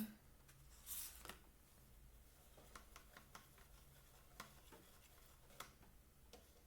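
Near silence: room tone, with a soft rustle about a second in and a few faint, scattered clicks.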